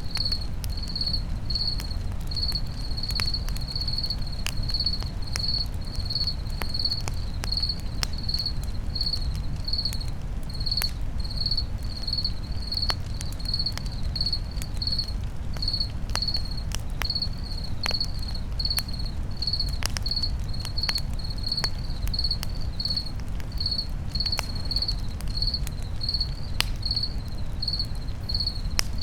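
Crickets chirping steadily, about two chirps a second, over a campfire crackling with scattered sharp pops and a low steady rumble.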